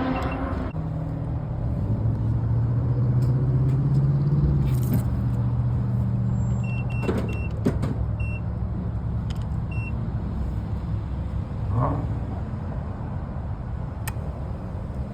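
Car engine and road noise heard from inside a moving car, a steady low hum that swells for a few seconds, with a few short high beeps in the middle.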